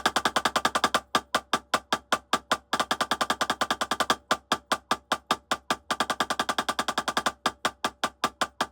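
Drumsticks playing alternating single strokes in a rudiment breakdown, switching about every second and a half between 8th notes and 16th notes twice as fast, with a steady ring beneath the strokes.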